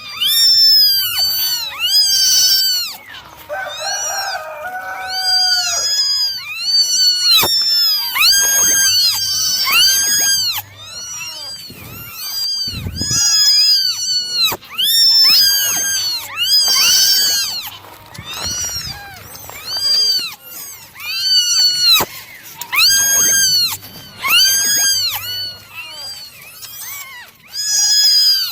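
Several kittens meowing over and over in high-pitched cries, each call rising and then falling in pitch, often overlapping, about one to two calls a second.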